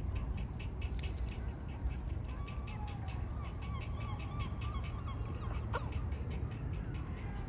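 Waterfowl calling on the lake: a fast run of short repeated calls throughout, with a longer wavering call in the middle, over a steady low background rumble.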